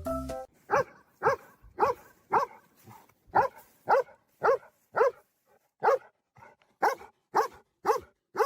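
A dog barking over and over in short, even barks, about two a second.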